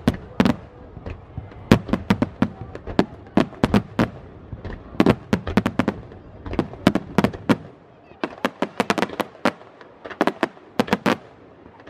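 Aerial fireworks going off overhead in many sharp cracks and pops, irregular and bunched in quick clusters, with a short lull about two thirds of the way through before another dense run.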